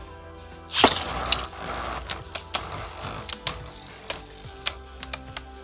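Two spinning Beyblade tops, one a 3D-printed custom, battling in a plastic stadium: a loud crash as they collide about a second in, dying away in a rattling scrape. After it comes a string of sharp clicks at irregular spacing, a few each second, as the tops keep striking each other.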